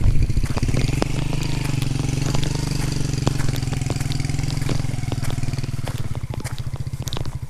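A vehicle engine running steadily with a fast, even firing rhythm.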